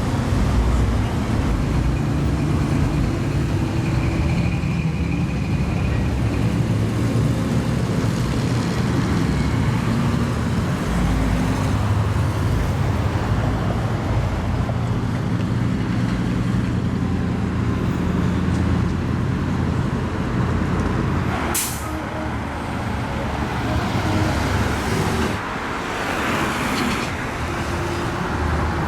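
Car engines running in slow cruise traffic, a steady low exhaust rumble. About three-quarters of the way in there is one sharp snap, followed near the end by a few brief hisses.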